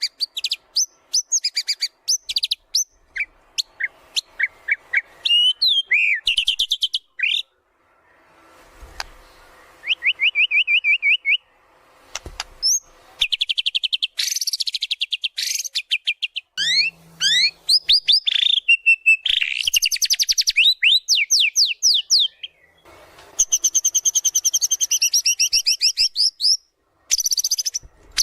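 White-rumped shama singing a long, varied song of rapid trills, whistled glides and fast runs of repeated chirps, with short pauses between phrases.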